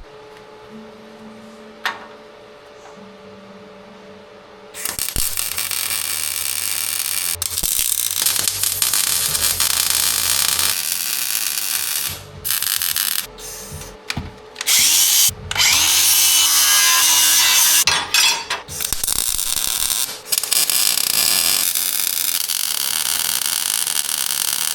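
A power tool running in loud bursts with short pauses, used on steel body mounts on a truck frame; its pitch rises partway through as it spins up. A faint steady hum comes before it starts, about five seconds in.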